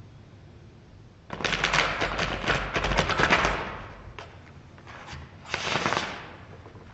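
Playing cards being shuffled: a dense run of rapid clicks that starts about a second in and lasts about two seconds, then a shorter run near the end.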